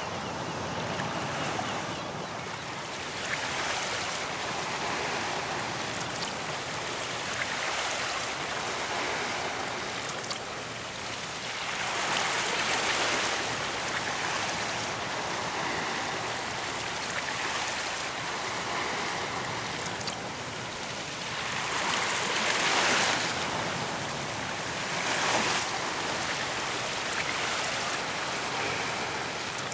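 Ocean surf breaking on a beach: a steady wash of water with waves swelling and breaking every few seconds, the biggest about twelve and twenty-two seconds in.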